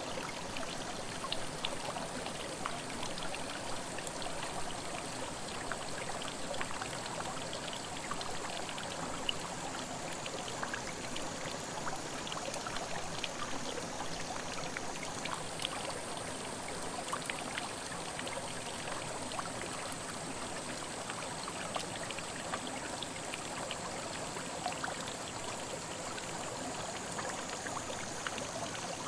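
Mountain headwater stream flowing over rocks: a steady rush of water dotted with many small splashes and drips.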